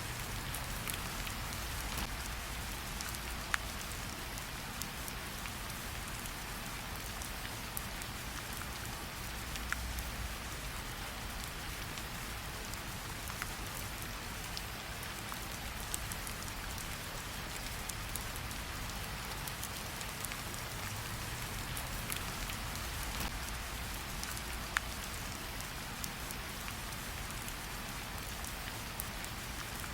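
Steady rain falling, with scattered sharp crackles from a campfire every second or two.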